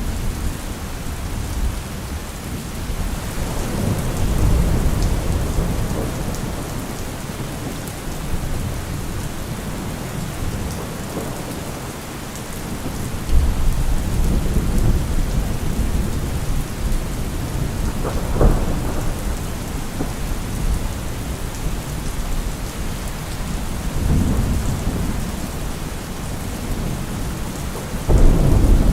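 Steady heavy rain falling on a surface, with several low rolls of thunder swelling and fading and one sharper thunder crack about two-thirds of the way through.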